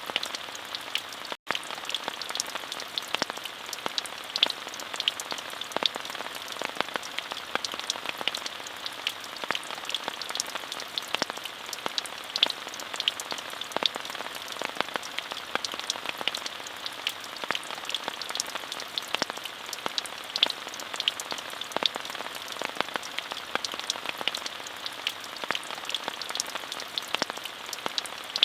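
Steady rainfall, a dense even hiss full of sharp individual drop ticks. A split-second gap of near silence about a second and a half in.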